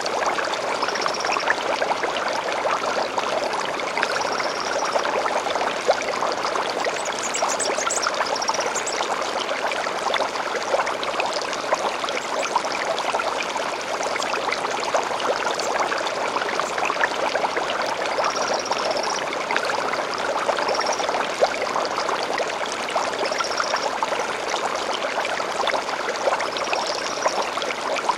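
Stream flowing steadily, with short high bird calls every few seconds.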